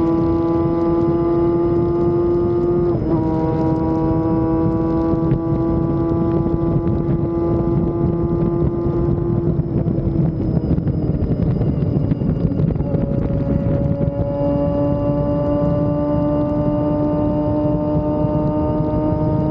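Inline-four sport motorcycle engine running at steady high revs while riding, its pitch slowly climbing. There is a quick dip about three seconds in, it sags around ten seconds, and it builds again from about fourteen seconds. Constant wind rush on the microphone runs underneath.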